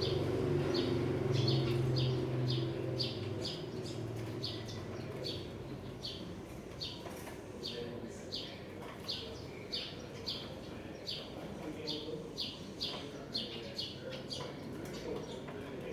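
Small birds chirping, short high chirps repeated about twice a second, over a low hum that fades out in the first few seconds.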